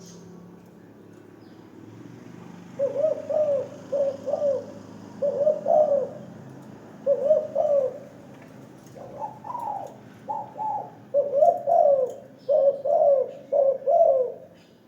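Spotted dove cooing in a series of repeated phrases, starting about three seconds in, with short pauses between phrases.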